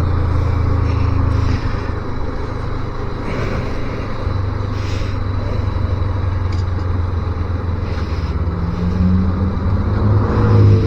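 250 cc motorcycle engine running steadily under way, with road noise. A higher engine note comes in about eight seconds in and gets a little louder toward the end.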